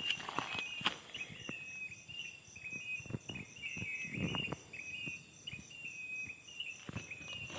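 Insects chirping: a steady high pulsing trill and a short repeated chirp about twice a second, over scattered footsteps on soft ground.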